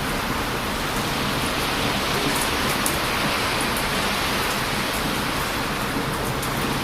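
Heavy surf washing and breaking on a beach in strong wind, a steady loud rushing, with a few sharp crackles from a wood campfire.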